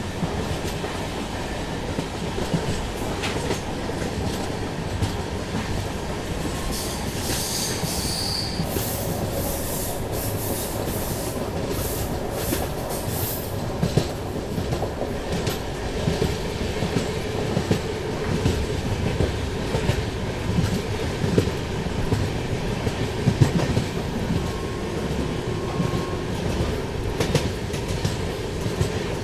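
Moving passenger train running over the track: a steady rumble with irregular clicks from the wheels crossing rail joints, and a high squeal and hiss from the wheels between about seven and fourteen seconds in.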